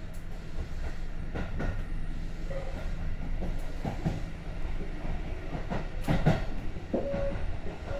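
Sanyo Electric Railway train pulling out of a station, heard from inside the car: a steady running rumble with scattered wheel knocks over the rail joints, the loudest about six seconds in.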